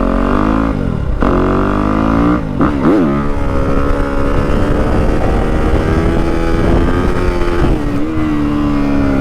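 Yamaha WR250F's single-cylinder four-stroke engine running through a YZ slip-on exhaust while being ridden. The revs fall and climb twice in the first three seconds, as with gear changes, then the engine holds a steady, slowly rising note.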